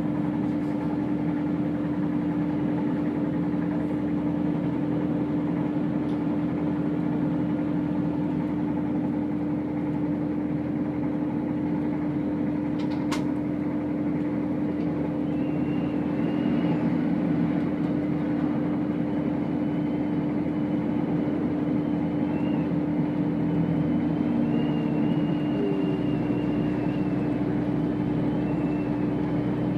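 Chiltern Railways diesel train running at steady speed, a continuous drone with a constant hum. A single sharp click about halfway through; faint high squeals come and go in the second half.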